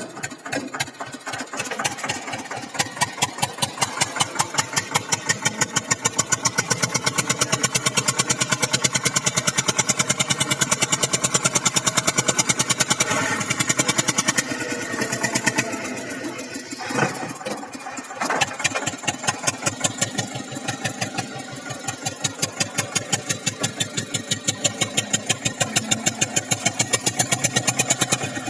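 Eicher 242 tractor's diesel engine running with a steady, pulsing chug. The beat eases off briefly around the middle, with a couple of sharp knocks, then picks back up.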